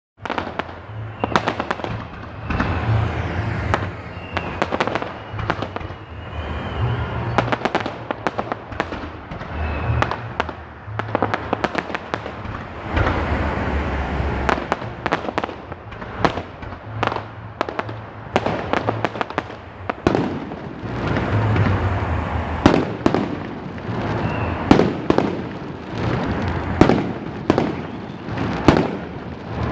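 Fireworks salute: a dense, continuous string of shell bursts, deep booms with sharp bangs and crackle, rising and falling in waves, with the sharpest single bangs in the last several seconds.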